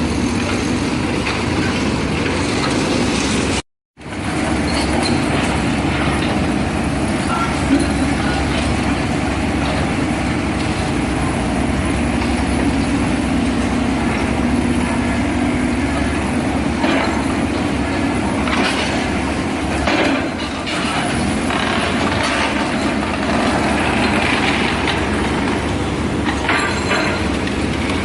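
Steady loud mechanical rumble with scattered clicks and knocks, cut off completely for a moment about four seconds in.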